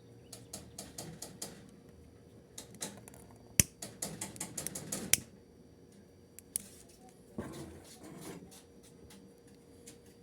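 Irregular small clicks and taps of objects being handled on a bench. There is one sharp click about three and a half seconds in, a quick run of clicks just after it, and a short rustle near the end.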